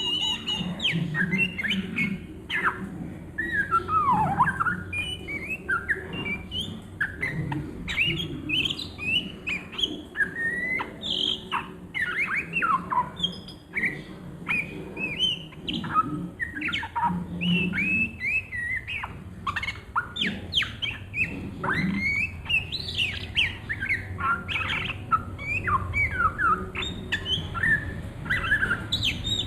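Oriental magpie-robin (kacer) singing a fast, unbroken stream of varied chirps, whistles and quick up-and-down slurred notes, the busy chattering style that bird keepers call ngriwik.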